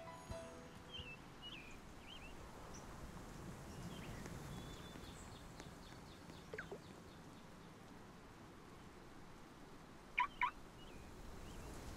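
Bird calls over a faint, steady background: a few short calls, loudest a quick pair about ten seconds in.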